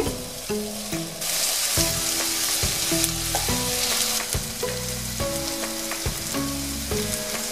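Sliced onions frying in hot oil, being softened until translucent: a steady sizzle that grows louder about a second in. Instrumental background music with held notes plays along.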